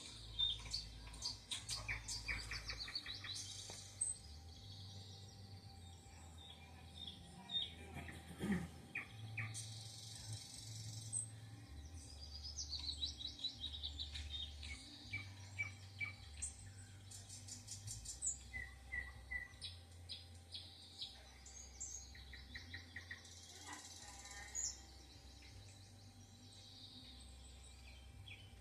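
Small songbirds chirping and calling, with many short rapid trills and high chirps overlapping one another.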